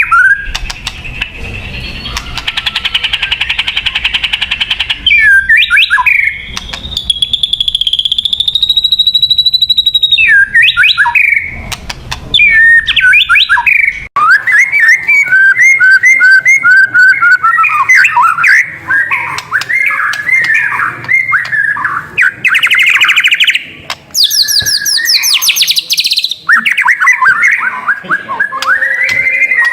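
White-rumped shama singing loudly: a continuous run of varied whistled phrases, quick trills and rising and falling notes, with one long held whistle about seven seconds in.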